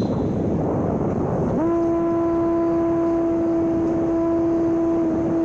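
Homemade electric RC plane's brushless motor and propeller: a steady hum starts suddenly about a second and a half in, holds level, then falls away in pitch at the end as the throttle is cut. This is heard over a steady rush of wind.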